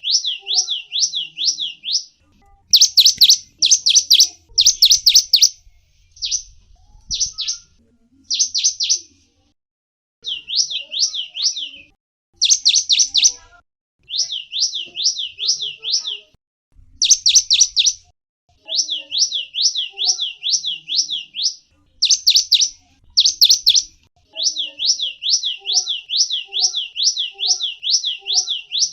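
A small songbird, the gelatik wingko, singing long runs of quick, high whistled notes, each sliding downward, about four or five a second, in phrases broken by short pauses, with a few louder, denser bursts.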